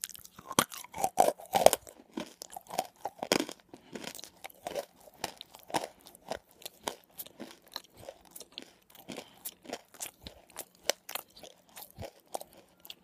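Close-up crunching and chewing of a hard, crumbly white lump the uploader calls nakumatt: loud bites in the first two seconds, then a steady run of sharp crackling crunches as it is chewed down.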